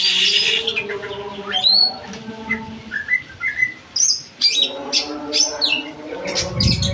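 Caged green leafbird (cucak ijo) and lovebird singing against each other: quick chirps, whistled up-and-down glides and sharp calls, getting busier in the second half. A low rumble comes in near the end.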